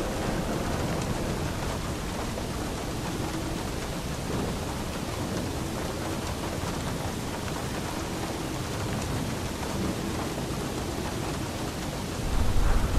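Steady, even rainfall. Near the end a deep rumble of thunder swells in under it.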